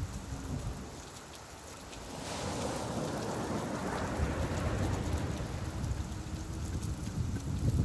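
Steady rain falling, an even hiss over a low rumble. The rumble drops away for about a second early on, then the hiss swells back up.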